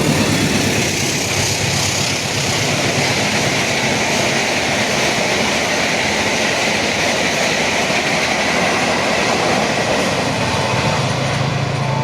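A train passing close by at speed: a loud, steady rush of wheels and carriages running over the rails.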